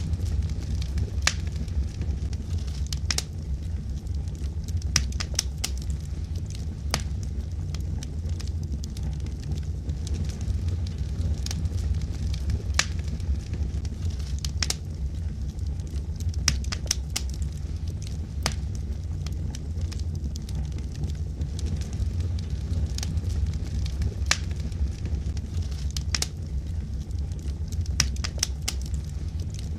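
Wood fire burning in a fireplace: a steady low rumble with irregular sharp crackles and pops from the logs.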